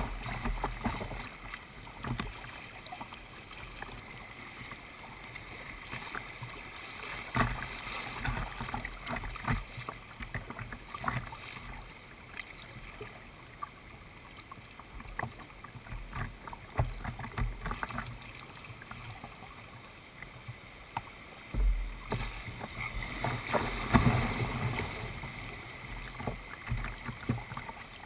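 Kayak paddling: paddle strokes splashing in the water, with irregular knocks and taps and occasional low rumbles.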